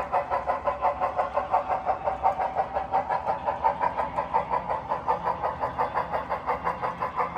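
HO scale model train running, with an even rhythmic pulsing about five times a second.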